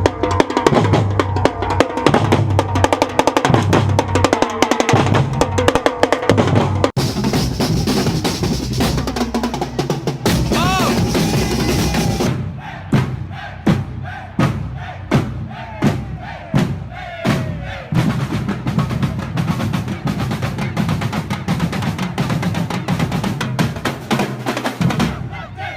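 Samba band drumming a fast, driving rhythm, with deep surdo bass drums under snare drums. The sound changes abruptly a couple of times, like cuts between takes.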